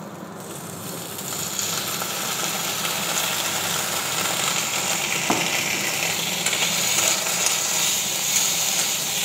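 Elephant yam pieces frying in hot oil and masala in a wok, the sizzle growing louder over the first two seconds as tomato sauce goes into the hot pan, then holding steady while a wooden spatula stirs. One sharp knock about halfway through.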